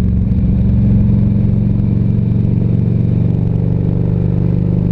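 Harley-Davidson Ultra Classic Electra Glide's V-twin engine running steadily while the motorcycle is ridden along the road.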